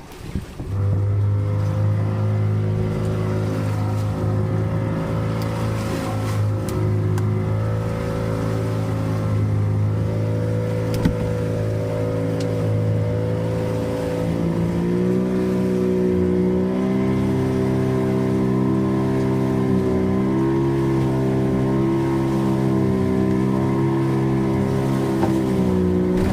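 Boat engine running steadily at sea, coming on loudly about a second in, its pitch rising a little about halfway through as it speeds up.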